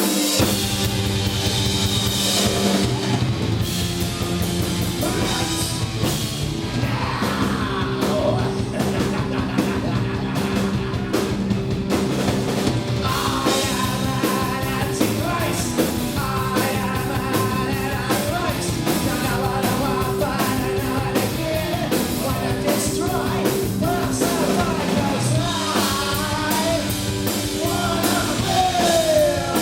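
Live punk rock band playing at full volume: electric guitars, bass and drums, with a singer's voice coming in over the band at times.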